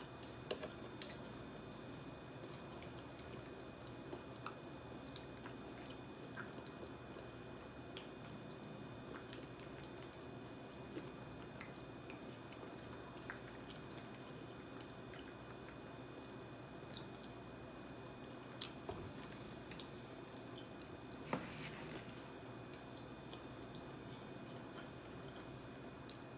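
Faint chewing of food with soft mouth sounds and scattered small clicks, over a steady low room hum. One louder click comes late on.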